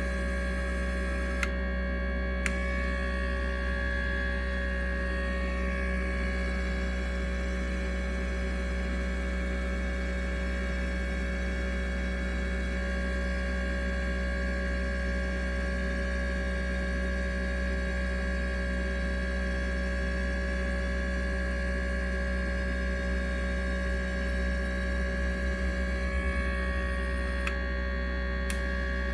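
Steady electrical hum made of several unchanging tones, with two short clicks about a second apart near the start.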